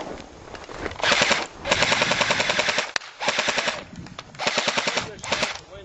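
Airsoft guns firing on full auto in five rapid bursts, the longest lasting just over a second.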